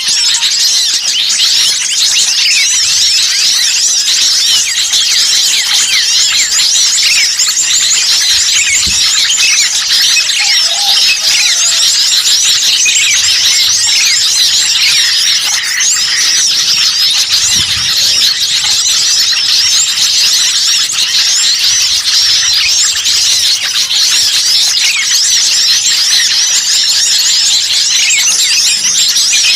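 Loud, dense chorus of many small songbirds chirping and squeaking rapidly over one another, a bird-lure recording of agitated small birds used to draw wild birds in.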